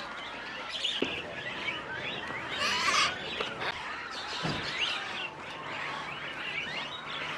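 A crowd of caged songbirds chirping and calling over one another, with a louder flurry of calls about three seconds in. Two brief soft knocks can be heard, about a second in and midway.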